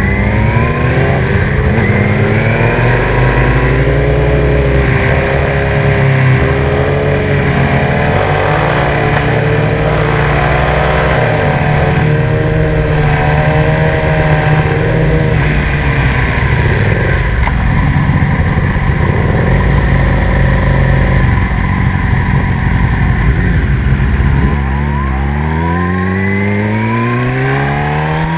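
Sport motorcycle with a Two Brothers aftermarket exhaust, under way: the engine note climbs as it accelerates, then holds a fairly steady cruising pitch that wavers with the throttle. Near the end the revs drop and then climb again in a fast rising sweep as it accelerates hard.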